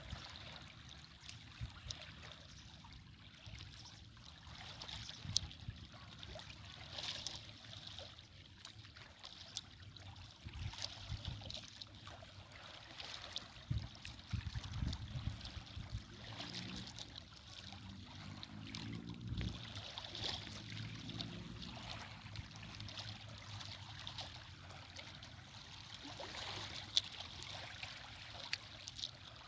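Running water of a small stream, a continuous trickling rush that swells and eases, with a low rumble about halfway through.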